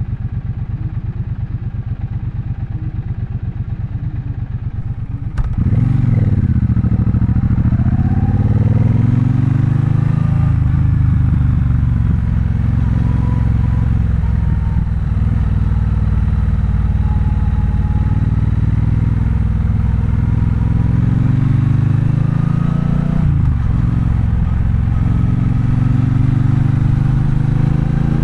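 Triumph Bonneville Bobber's 1200 cc parallel-twin engine ticking over at low revs for about five seconds. It then opens up suddenly and rises in pitch as the bike accelerates, settles into steadier running, and dips briefly at a gear change before pulling up again near the end.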